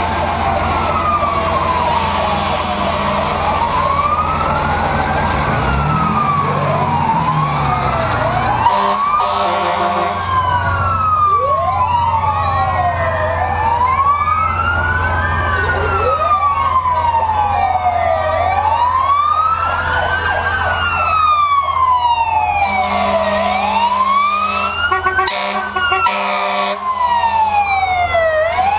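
Several fire truck and emergency vehicle sirens wail at once, each rising and falling over a few seconds and overlapping one another, with a faster yelp near the end, over the steady hum of truck engines. Brief steady blaring blasts cut in about nine seconds in and twice near the end.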